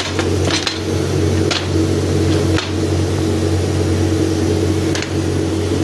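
Laser cutting machine running while cutting MDF: a steady mechanical hum with a few short ticks scattered through it.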